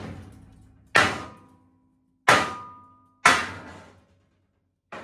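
Hammer blows on steel: three hard clanging strikes, each ringing briefly, then a lighter hit near the end. The blows are meant to knock loose a part that seems to be welded to a steel C channel.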